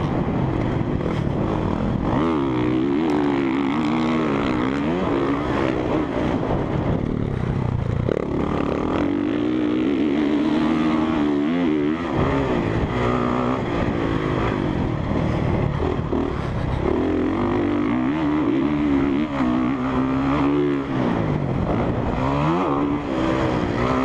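Honda CRF450R dirt bike's single-cylinder four-stroke engine ridden hard around a motocross track, its revs rising and falling over and over as the throttle is opened and shut through the turns and jumps.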